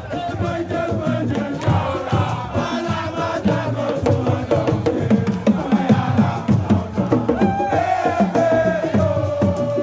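Fast, dense drumming with a voice singing long, sliding notes over it, and a crowd chanting along.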